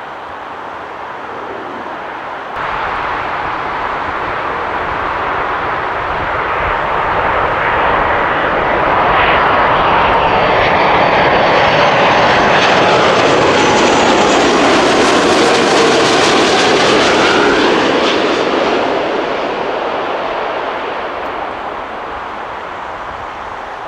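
Jet airliner on approach, an Air Canada Airbus A330-343 with Rolls-Royce Trent 700 engines: engine noise swells as it comes in, peaks for several seconds with a falling whine as it passes, then fades. A sudden step in the sound about three seconds in marks the start of this aircraft's pass.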